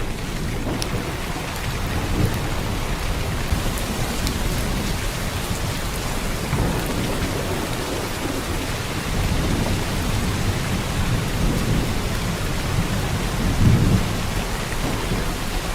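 Heavy downpour of rain, steady and unbroken, with a deep low rumble under it that swells briefly near the end.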